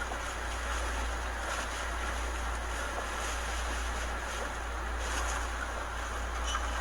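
Hurricane-force wind blowing steadily: a continuous rushing noise with a heavy low rumble of wind buffeting the microphone.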